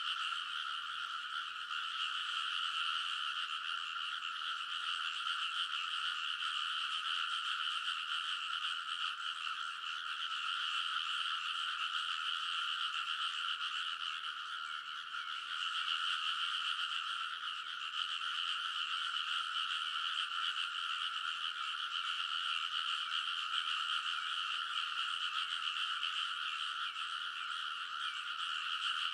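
A dense chorus of many frogs calling together, an unbroken mass of overlapping croaks.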